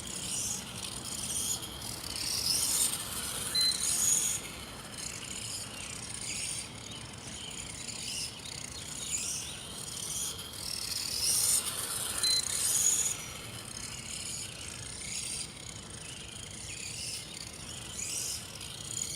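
A 1/18-scale Axial SCORE trophy truck (radio-controlled car) running laps: a whirring electric motor and gear sound with tyre noise. It swells loud about every eight to nine seconds as the truck comes past, with a brief high beep in each swell.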